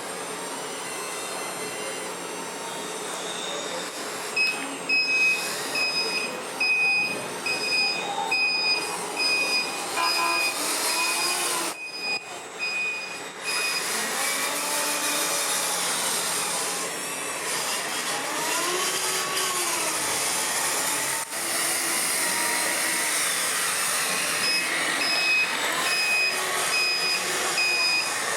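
Radio-controlled scale trucks running, their small electric motors whining up and down, with a high reversing beeper pulsing for several seconds at a time: a model truck backing up.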